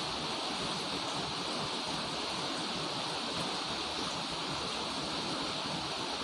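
Heavy rain falling in a steady, even downpour, a constant hiss with no letup.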